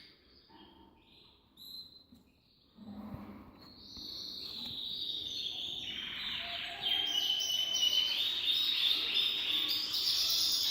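Small birds chirping and calling: a few scattered chirps at first, then many overlapping high-pitched chirps that build into a dense chorus from about four seconds in and grow louder about seven seconds in.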